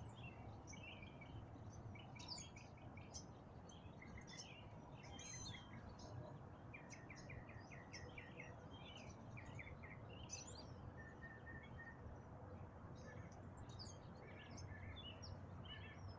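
Songbirds singing faintly: a varied stream of chirps, trills and short runs of repeated notes, over a low steady background rumble.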